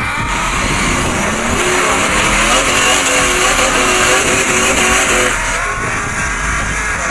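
Monster truck engine revving hard, its pitch rising and falling, with tyre noise.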